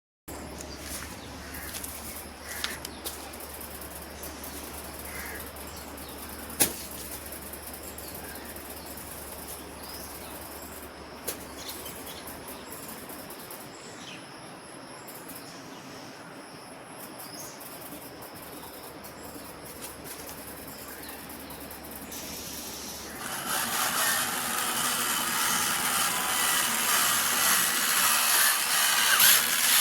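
Outdoor background with a few sharp clicks and faint bird chirps. About three quarters of the way in, a louder steady whirring of a small electric motor starts and keeps going.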